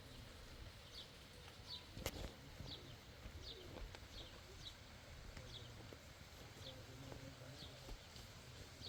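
A small bird chirping over and over, one short high chirp roughly every second. A single sharp click sounds about two seconds in.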